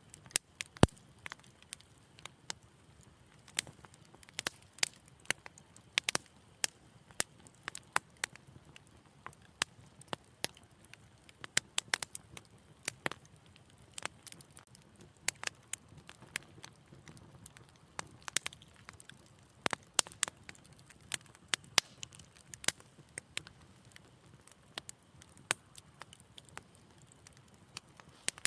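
Wood fire in a fireplace crackling, with irregular sharp pops and snaps several times a second over a soft low rumble of the flames.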